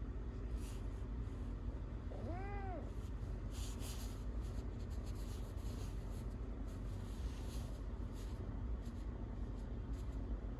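A domestic cat gives one short meow that rises and falls in pitch, about two and a half seconds in. Soft scratchy rustling comes and goes around it.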